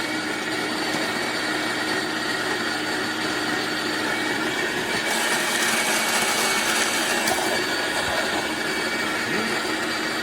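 Fellow Opus electric conical burr coffee grinder running and grinding beans: a steady motor whine over a gritty grinding hiss, harsher for a couple of seconds about halfway through.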